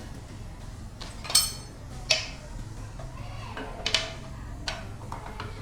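Metal parts and tools clinking and knocking against each other: a few sharp metallic strikes, the loudest about a second and a half in with a brief ring, over a steady low hum.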